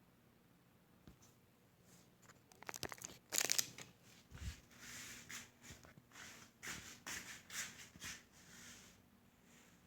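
Handling noises: a quick run of clicks, a louder scrape and a dull thump, then scattered rustling and scraping.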